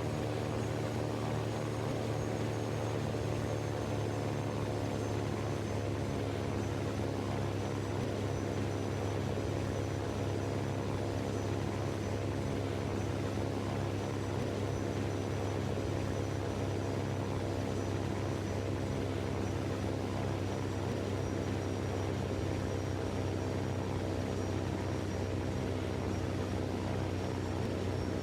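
A steady, unchanging mechanical drone made of many even tones, with a faint high whine that slowly falls in pitch.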